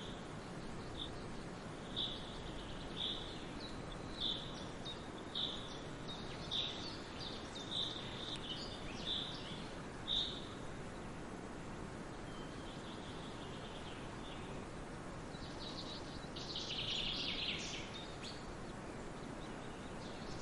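A songbird repeating one short, high chirp about once a second, nine or ten times, then a longer, busier flurry of high calls near the end, over a steady background hiss.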